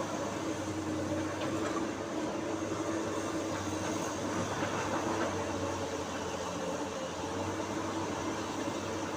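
Heavy diesel earthmoving machinery running steadily: a constant low engine hum with a steady drone above it, without sharp knocks.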